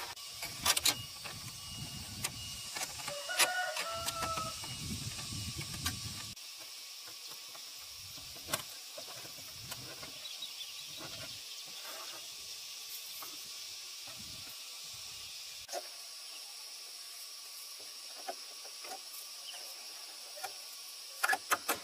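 Steady high hiss with scattered light knocks and clicks. A low rumble and a few short whistled notes come in the first few seconds, and the rumble cuts off abruptly.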